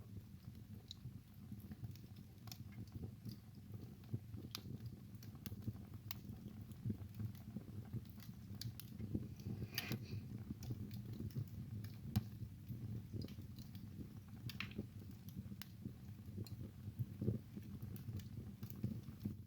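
Wood fire burning in a fireplace: irregular crackles and sharp snaps over a low, steady rumble of the flames, with a louder pop about halfway through.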